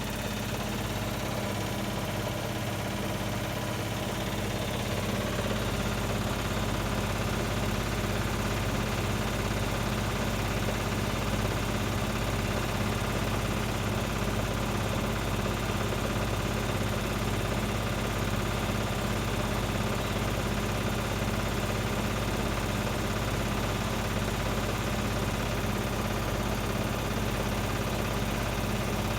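Hotpoint WMA30 washing machine running steadily, its motor humming as the drum turns with an unbalanced load that keeps it from reaching a full spin.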